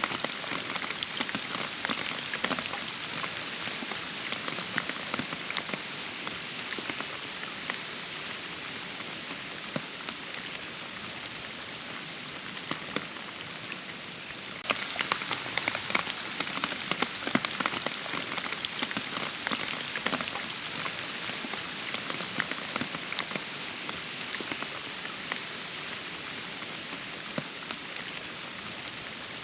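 Steady rain falling, with many close individual drops ticking sharply over the hiss. About halfway through, the drop hits suddenly turn louder and denser, then ease off again.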